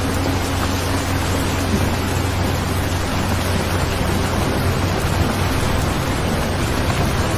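Steady rain, an even hiss of falling water, with a faint low hum underneath.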